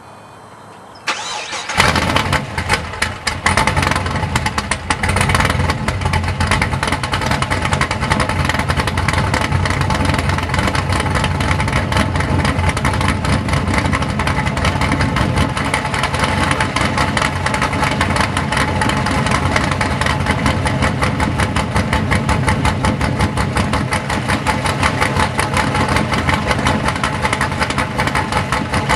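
2004 Pontiac GTO's LS1 V8, fitted with an aftermarket cam, long-tube headers and a MagnaFlow 3-inch cat-back exhaust, cranking and starting about two seconds in. It flares up briefly, then settles into a steady idle.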